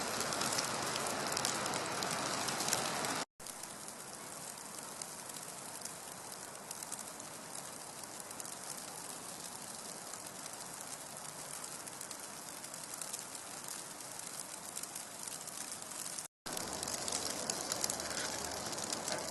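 Steady fine patter of wet snow falling in a snowstorm. It breaks off abruptly twice where the recording cuts, coming back a little quieter after the first cut and louder after the second.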